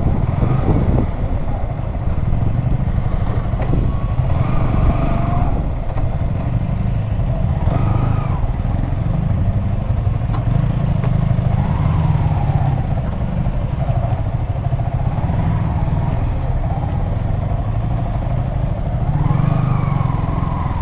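Motorcycle riding along, its engine pitch rising and falling several times as it speeds up and eases off, over a steady low rumble of engine and wind.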